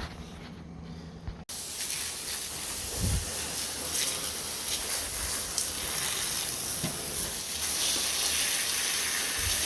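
Garden hose spraying water in a steady hiss, starting abruptly about a second and a half in, as mud is hosed off a dog's coat.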